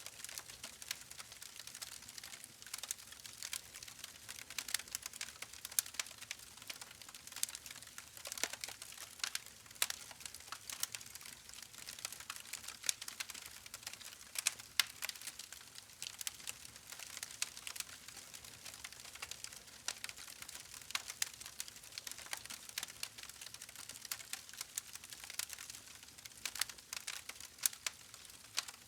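Wood fire crackling: a dense, irregular run of small sharp pops and snaps over a soft hiss, with a few louder pops here and there.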